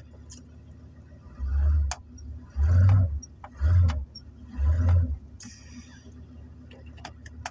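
Ford 460 big-block V8 of a van revved in four short bursts, trying to drive the van out of snow and ice without getting free.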